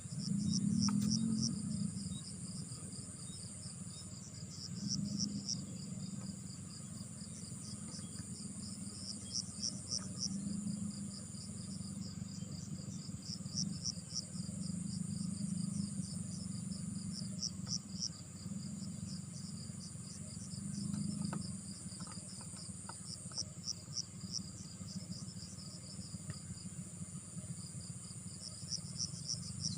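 Insects chirping in rhythmic groups of rapid pulses, over a steady high-pitched trill. Beneath them a low rumble swells and fades every few seconds; it is loudest about a second in.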